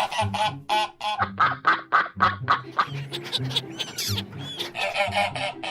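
Ducks quacking in short, quickly repeated calls over background music; the quacking thins out in the middle, where higher calls that glide up and down in pitch come through.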